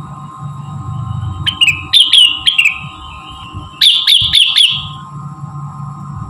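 Cucak rengganis (cucak wilis) song played as a lure: two bursts of short, sharp chirps that slide downward, the first about one and a half seconds in and the second, quicker run near four seconds in, over a steady background hum.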